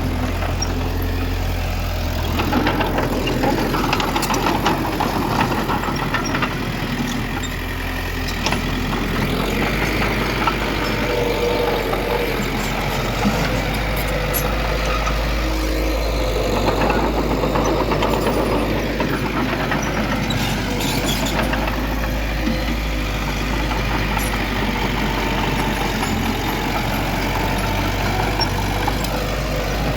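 Diesel engines of heavy earthmoving machinery, a bulldozer and a dump truck, running steadily, with a few faint metallic clicks and clanks.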